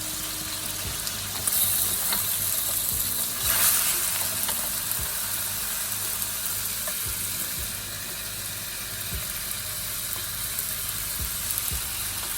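Food sizzling steadily in hot oil in a wok, with faint clicks of stirring. The sizzle swells louder briefly about one and a half and three and a half seconds in.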